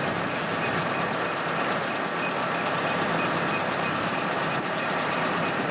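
Farm machinery engines running steadily in the field, with a faint high beep repeating at an even pace.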